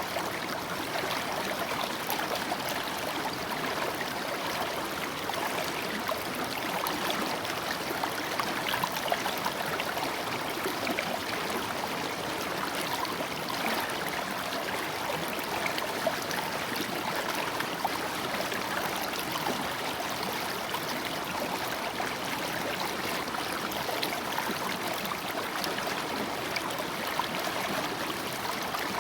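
Water spilling over a small waterfall in a creek: a steady splashing rush without deep rumble.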